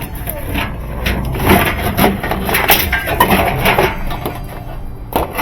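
Rummaging through hard parts: a busy run of clattering knocks and rubbing, thickest in the middle few seconds, with one more sharp knock near the end.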